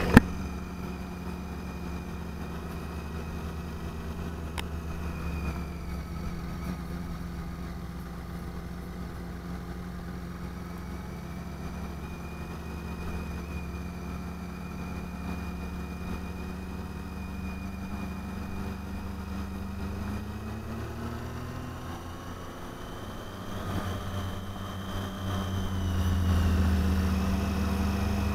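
Triumph motorcycle engine running at a steady cruise, heard from the bike itself. About twenty seconds in the revs drop as it slows, then climb again, and it grows louder near the end as it accelerates.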